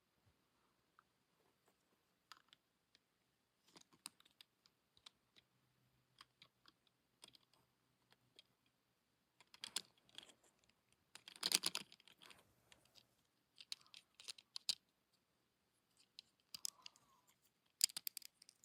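Light plastic clicking and rattling in scattered faint clicks, with louder clusters about halfway through and again near the end.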